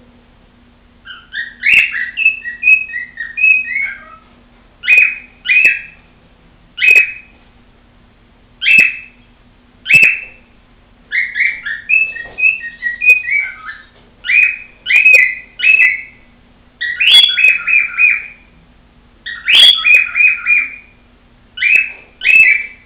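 Cockatiel whistling and chirping: a string of short, high whistled phrases with brief pauses between them, starting about a second in.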